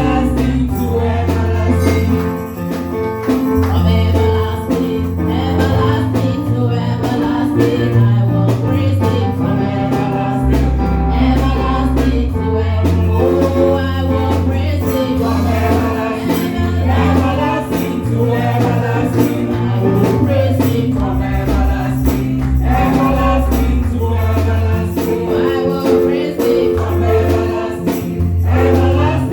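Live gospel praise music from a church band: a bass line moving in held notes under drums and tambourine, with voices singing.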